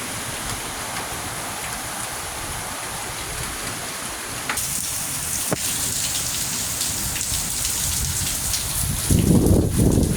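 Hurricane Milton's heavy wind-driven rain pouring down and blowing off a roof, a steady hiss that grows louder about halfway through. A low rumble of wind comes near the end.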